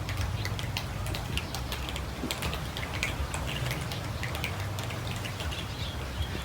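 Many cats eating together: a dense, irregular patter of small chewing and crunching clicks over a low rumble.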